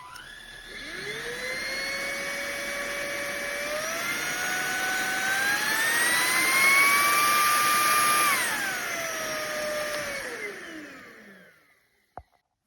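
Fieety cordless stick vacuum's motor switched on and whining up to speed, rising in pitch in two steps to its highest speed, then dropping back and winding down to a stop. A single click follows near the end.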